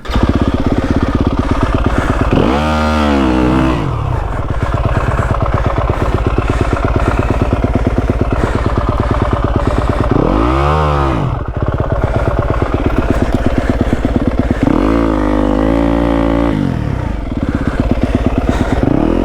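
Yamaha WR250F's single-cylinder four-stroke engine running loudly, revved up and back down several times, one rev held for over a second, as the dirt bike is worked to get free from being stuck behind branches in snow.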